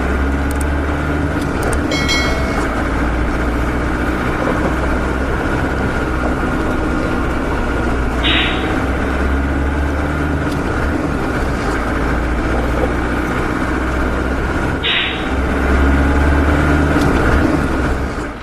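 Truck engine running steadily with a low drone, with two short hisses, one about 8 seconds in and one about 15 seconds in.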